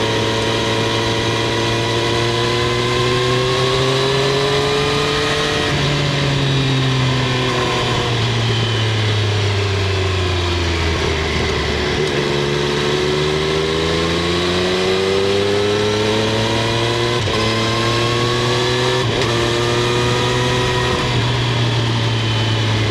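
Triumph Street Triple 765 R's 765 cc inline three-cylinder engine and exhaust under way. The pitch climbs for about five seconds, falls as the bike slows to a low point about halfway through, then rises again. There are short breaks in the note about 17 and 19 seconds in.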